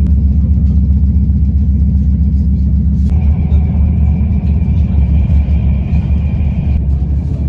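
Passenger train running, heard from inside the carriage: a steady low rumble, with a steady high whine joining about three seconds in and dropping out near the end.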